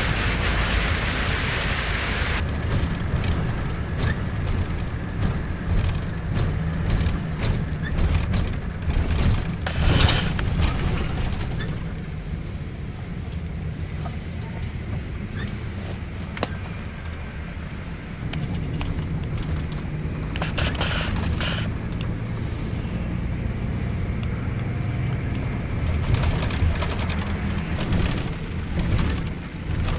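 Steady low rumble of a Scania K410iB double-decker bus under way, heard from inside the cabin. A hiss like rain on the bodywork runs through the first couple of seconds and then stops, and a few knocks and rattles come through now and then.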